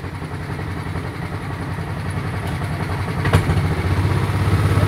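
Small engine of a vintage-style ride car running steadily, its sound growing louder from about three seconds in, with a single sharp knock just before that.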